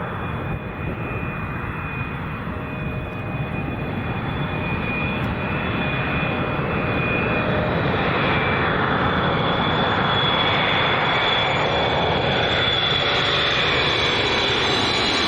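Jet noise of an Emirates Boeing 777-300ER's GE90 turbofans on final approach, a steady rush with a high fan whine, growing louder as the airliner closes in about halfway through.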